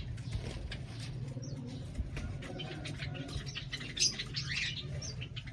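Bengalese finches chirping: many short, high calls and clicks, the loudest about four seconds in, over a steady low hum.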